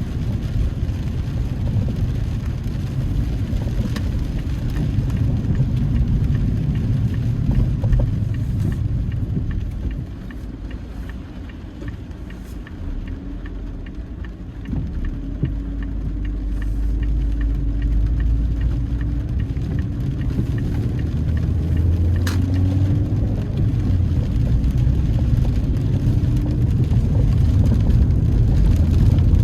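Car engine and road noise heard inside the cabin. It drops for a few seconds about a third of the way in as the car slows, then builds again with a rising engine note as it pulls away. There are a few light clicks along the way.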